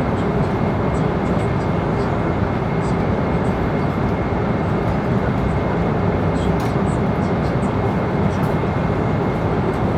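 Airliner passenger cabin noise in flight: a steady roar of engines and rushing air, with a faint steady whine and scattered faint ticks.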